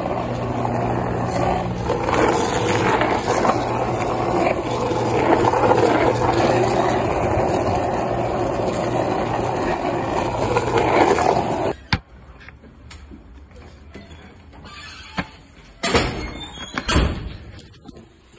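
Loud, steady vehicle running noise with a low hum. About two thirds of the way through it cuts off abruptly to a much quieter background with a few sharp knocks.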